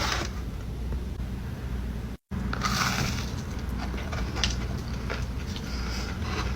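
Chewing and small mouth and handling sounds of someone eating a cookie over a steady low hum, with a brief cut to total silence about two seconds in.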